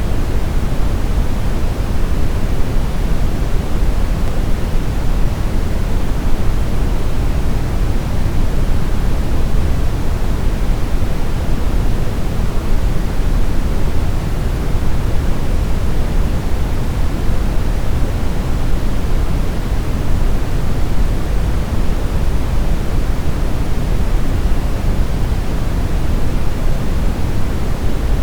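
Steady brown noise: a continuous, even rumbling hiss, weighted to the low end, that does not change.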